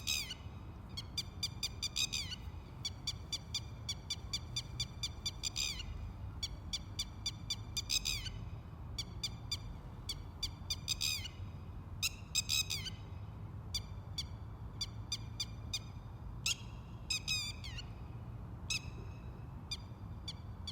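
Sparrows chirping: many short, high chirps in quick runs, busier in the first half and more scattered later, over a steady low rumble.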